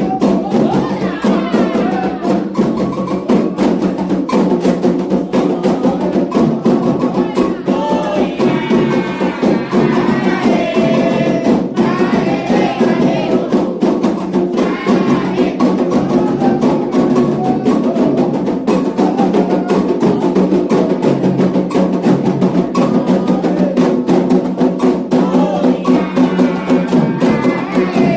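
Candomblé atabaque drums playing a fast, driving rhythm with a sharp struck timekeeping beat. Sung melody lines come and go over the drums, in a ritual song for the orixá Iemanjá.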